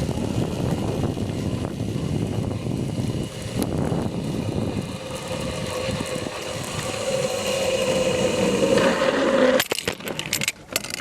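Zipline trolley pulleys running along a steel cable, with wind rushing over the microphone. A whine grows louder through the ride, then stops abruptly near the end, followed by a few clunks.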